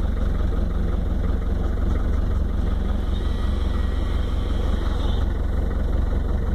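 Off-road vehicle engine running steadily at idle, a constant low rumble.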